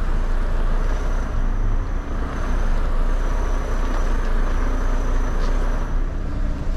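Lorry's diesel engine running steadily at low revs, heard from inside the cab as a continuous low rumble. A faint thin high whine comes and goes over it.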